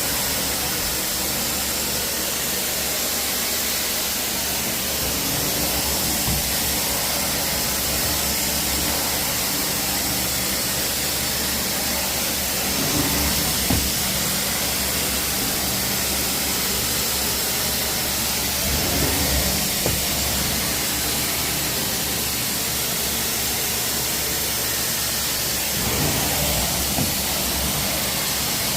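Carpet cleaning extraction machine running steadily: an even hiss of spray and suction over a low hum, with a few brief swells.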